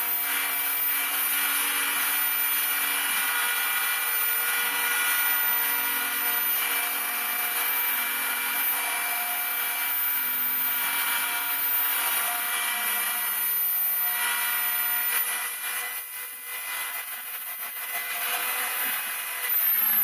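Home-built CNC router's spindle whining steadily at several constant pitches while it mills model-aircraft ribs, with a hiss of cutting. The sound drops for a few seconds near the end, then picks up again.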